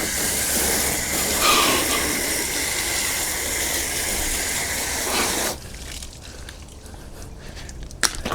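Water spraying steadily with a loud hiss as soap is rinsed off a car, cutting off suddenly about five and a half seconds in. Then quieter, with a few soft knocks and a sharp click near the end.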